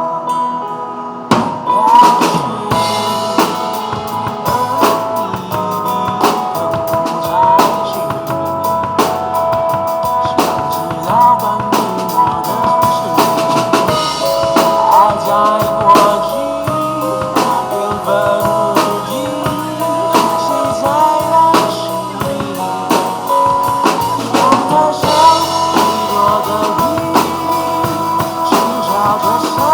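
Drum kit played in a groove over the song's melodic backing, with bass drum, snare and rimshot hits; the drums come in about a second in.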